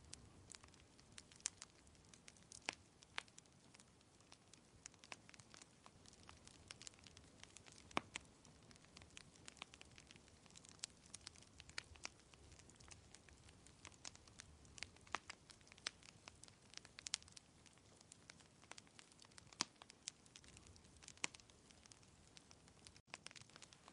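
Wood fire crackling: irregular sharp pops and snaps, several a second at times, over a faint low, steady hiss.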